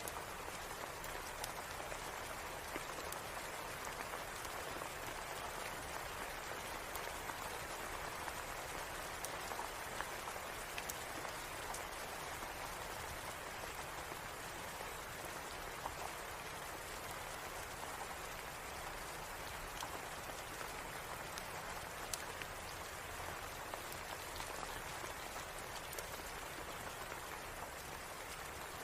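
Steady rain, an even dense patter, with scattered sharp ticks and pops throughout.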